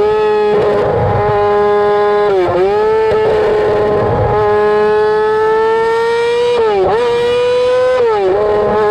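Straight-piped 2007 Yamaha R6 inline-four engine screaming at high revs, a steady high-pitched wail. The pitch drops briefly and climbs back four times, near the start, about two and a half seconds in, and twice near the end.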